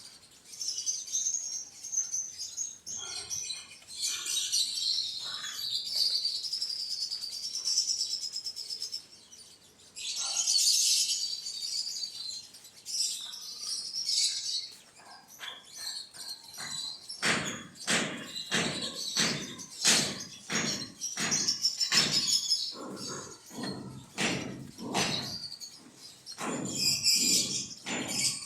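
Birds chirping with many high, quick notes. About two-thirds of the way in, a long run of regular knocks or thuds begins, roughly two a second, with chirping between them.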